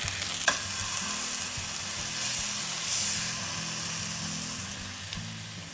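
Chicken pieces sizzling in oil in a frying pan, the sizzle slowly fading away, with soft background music underneath. A single light click about half a second in.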